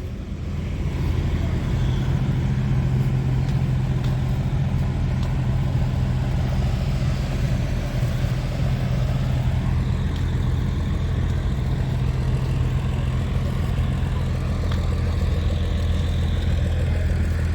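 Truck engine idling with a steady low hum that keeps an even pitch.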